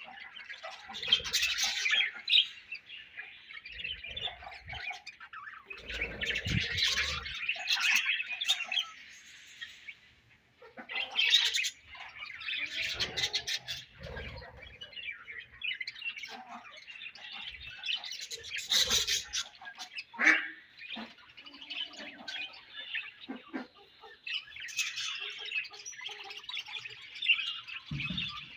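A colony of budgerigars chirping and chattering together, with louder bouts of squawky calls every few seconds and a brief lull about ten seconds in.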